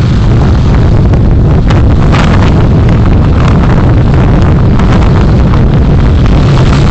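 Steady loud rumble of a moving vehicle, with wind buffeting the microphone and a few light rattles.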